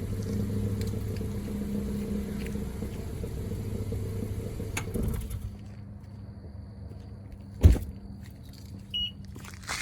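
Car engine idling steadily through an exhaust fitted with remote cutouts. A little past halfway the sound drops noticeably quieter. Later there is one heavy thump and, near the end, a short high beep.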